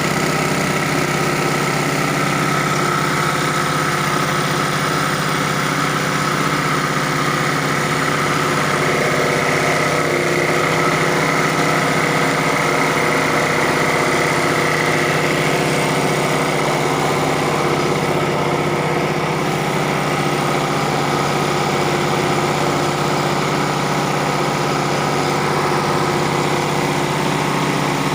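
Engine-driven multipurpose chopper-grinder machine for cassava running steadily, a constant mechanical drone with a faint high whine over it.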